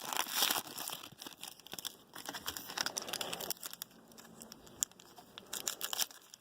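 Trading card pack wrappers crinkling and rustling as they are handled, with irregular small crackles and snaps that are busier in the first half and thin out after about three seconds.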